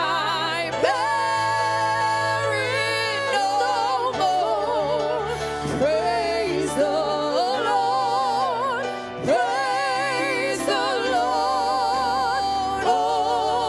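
A solo voice singing a slow gospel hymn, holding long notes with a wide vibrato, over a sustained accompaniment whose chords change every few seconds.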